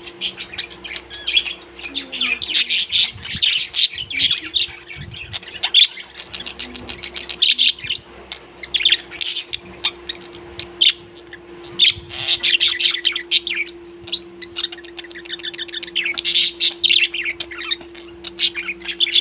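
Parrots chirping and chattering continuously, many quick high-pitched chirps overlapping, over a steady low hum.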